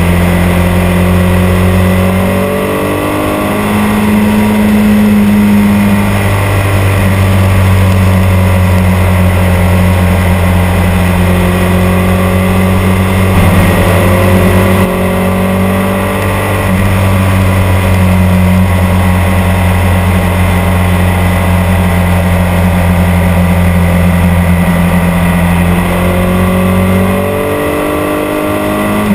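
Ducati 851 superbike's V-twin engine running under way, its pitch climbing three times as it accelerates, with steady running in between.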